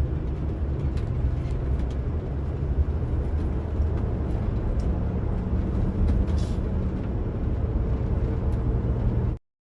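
Tour coach engine and road noise heard inside the cabin, a steady low rumble, cutting off suddenly near the end.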